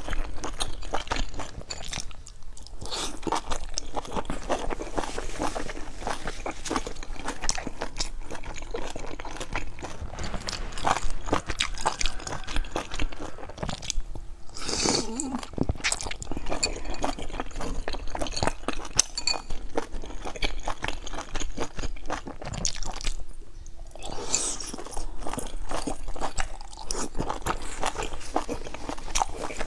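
A person biting into and chewing large dumplings dipped in sauce: steady wet chewing with many small clicks, broken by a few brief pauses.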